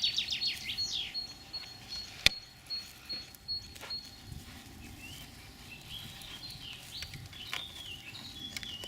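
Songbirds singing: a fast falling trill at the start, then a run of short high repeated notes and scattered chirps. A single sharp click about two seconds in.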